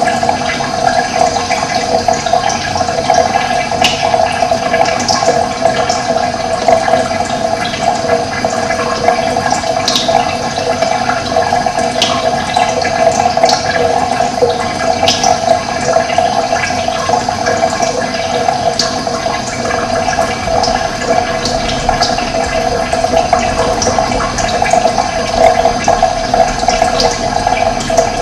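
Running water rushing steadily, with short high bird chirps every second or two.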